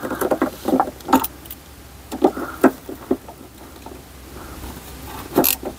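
Metal hand tools clinking and rattling as they are handled: a run of short irregular clicks and knocks, some with a brief metallic ring, as sockets are picked through.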